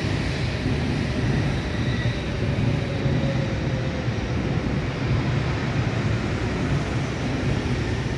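N700S Shinkansen train creeping to a stop alongside the platform: a steady low rumble with a faint whine that falls in pitch over the first few seconds as it slows.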